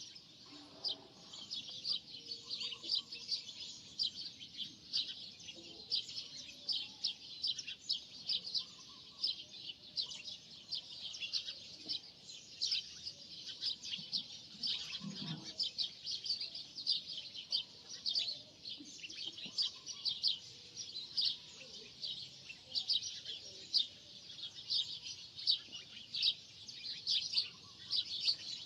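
Birds chirping continuously: many quick, short, high chirps overlapping one another.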